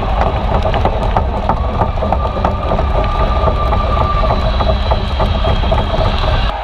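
Ice hockey arena crowd noise: a loud, steady rumble with a held tone that stops about four seconds in, and many sharp knocks and claps throughout.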